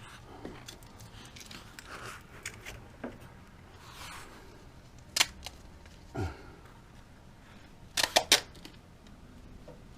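Scattered handling noises from installation work: a sharp click about five seconds in, a short falling groan a second later, and a quick run of three or four sharp clicks near the end.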